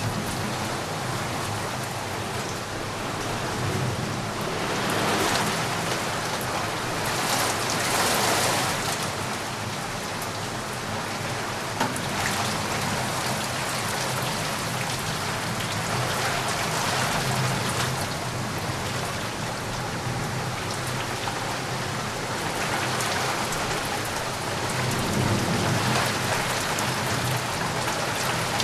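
Steady heavy rain falling on a surface, a dense hiss that swells and eases every few seconds.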